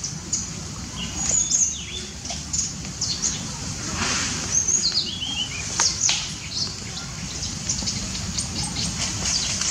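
Several small birds chirping, with many short high calls throughout and a quick series of notes stepping down in pitch around the middle, over a steady low rumble.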